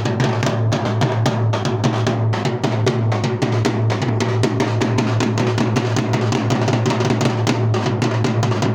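Dhol drumming: fast, even strokes, about five or six a second, over a deep steady boom from the bass head.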